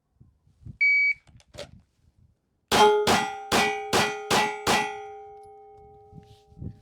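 A shot timer beeps once, and about two seconds later a pistol fires six quick shots in about two seconds: a Bill drill from the draw. A metallic ringing carries through the shots and fades slowly after the last one.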